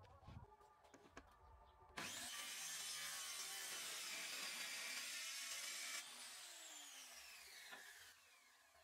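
A few light clicks, then a power tool runs for about four seconds, starting and stopping abruptly, and its motor winds down afterwards with a falling whine.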